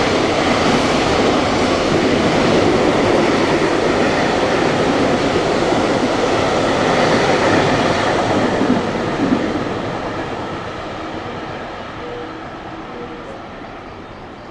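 Train passing through a station at speed: a loud, steady rush of wheel and running noise with some wheel clatter, dying away gradually from about nine seconds in as the train leaves.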